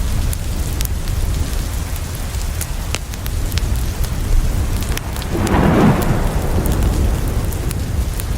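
Steady rain falling on a window, with a low roll of thunder swelling up about five seconds in and fading over the next two seconds. Scattered sharp crackles from a wood fire run through it.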